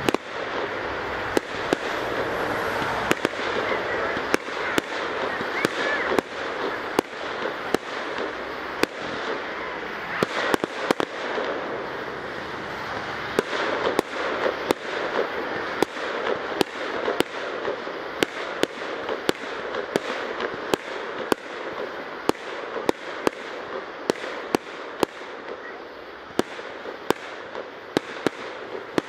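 Fireworks display: aerial shells bursting in a continuous run of sharp bangs, about one or two a second, over a steady background din.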